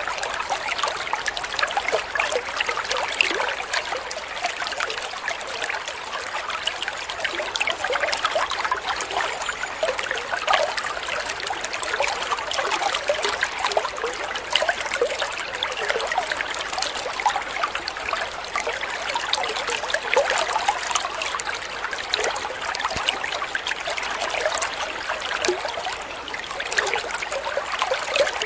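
Water trickling and babbling steadily over stones in a small stream, a dense, even splashing with many small droplet-like flickers.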